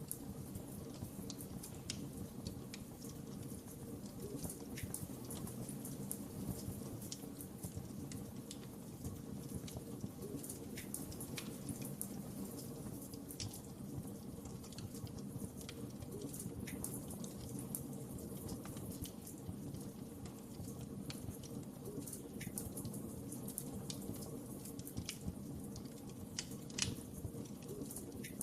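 Wood fire crackling: irregular sharp pops and snaps over a steady low rush of burning, with one louder pop near the end.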